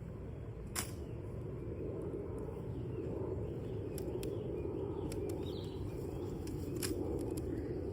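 Wood campfire burning with a steady rushing noise and a few sharp crackles and pops from the burning wood.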